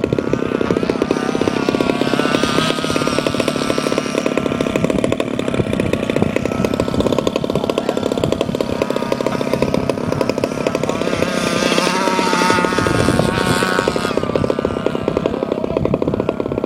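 27cc Zenoah two-stroke gas engine of an RC monster truck running, its pitch rising and falling with the throttle, with a stronger stretch of revving about eleven to fourteen seconds in.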